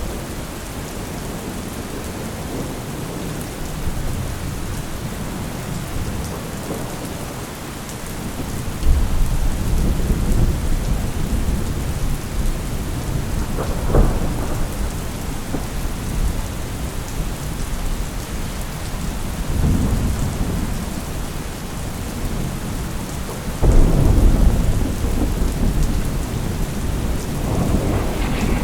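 Thunderstorm: steady rain falling, with repeated thunder, about five rolls and claps. The loudest clap comes near the end.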